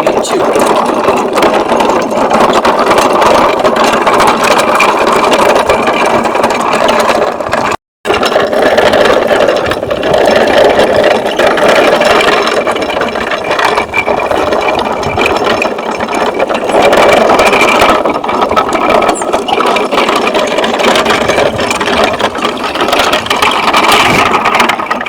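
Steady, loud engine-like drone for a toy Scania 113 truck on its run, broken by a brief cut about eight seconds in.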